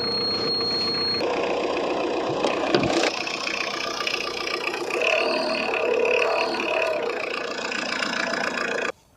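Tata Indica's diesel engine idling steadily just after starting on the first crank, with a thin high whistle over it for about the first second. The sound cuts off abruptly near the end.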